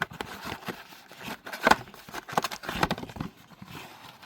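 Cardboard trading-card blaster box being opened by hand: a run of irregular crackles, tears and clicks, with a few louder snaps in the middle.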